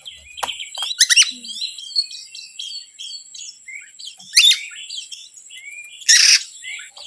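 Songbirds calling: rapid chattering notes, with sharp downward-sweeping whistles about a second in and again about four and a half seconds in, and a harsh rasping squawk about six seconds in.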